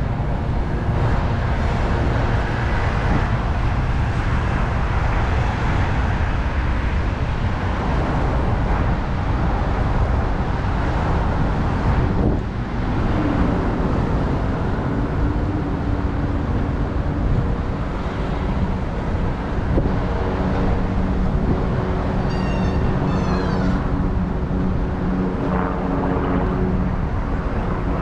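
Road traffic heard from a moving bicycle, with a steady low rumble of wind on the bike-mounted microphone. A nearby motor vehicle's engine hums steadily from about halfway through, and a brief high chirping comes near the end.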